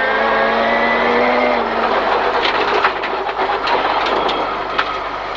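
Rally car's engine pulling hard in the cabin, its pitch rising slightly for about two seconds. It then backs off, leaving a steady roar of road noise with scattered sharp clicks and knocks.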